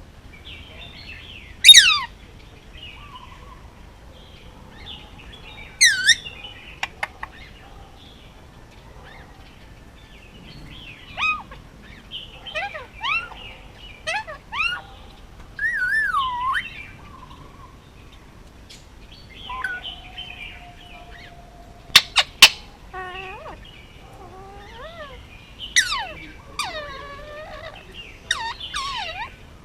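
Indian ringneck parakeet calling: loud, shrill squawks that drop sharply in pitch, mixed with wavering whistles, chirps and one longer held whistle, and a run of sharp clicks about two-thirds of the way through.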